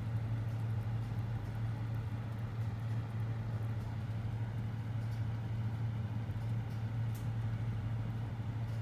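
Steady low electrical hum, unchanging in pitch and level.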